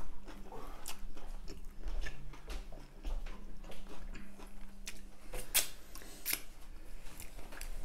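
Close-miked chewing of a mouthful of double Big Mac burger: wet mouth clicks and smacks, with a couple of sharper clicks a little past the middle.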